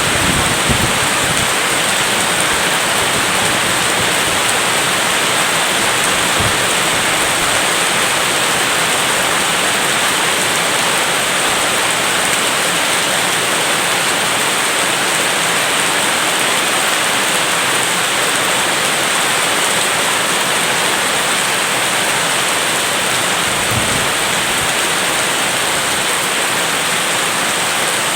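Heavy rain falling in a steady, dense hiss, with a few brief low thumps.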